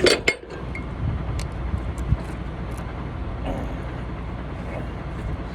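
Semi truck's diesel engine idling steadily, with a few short clicks and knocks over it.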